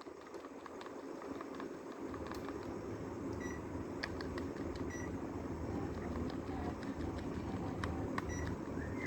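Air conditioner starting up: its fan noise and low hum build from about two seconds in and keep slowly rising, with short high beeps several times.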